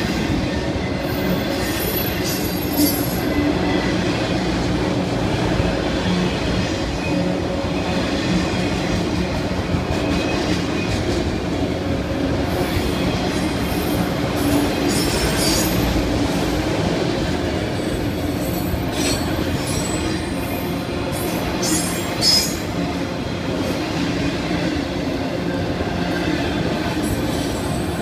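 A long string of autorack freight cars rolling past: a steady rumble of steel wheels on rail, with high metallic wheel squeals coming and going several times. A short sharp clank comes about three quarters of the way through.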